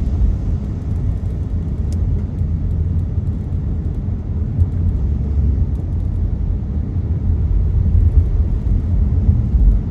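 Steady low rumble of a car driving, heard from inside the cabin, with an even hiss of tyres on a rain-wet road.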